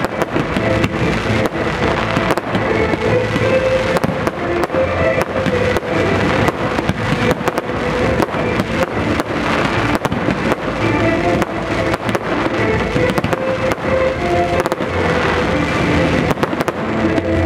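A fireworks display in full flow: a dense, continuous run of shell bursts, bangs and crackles, set over a music track playing at the same time.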